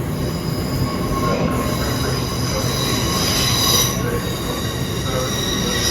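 A train's steel wheels squealing, several steady high pitches at once over a low rumble of the train running. The squeal peaks about three and a half seconds in, eases, and rises again near the end.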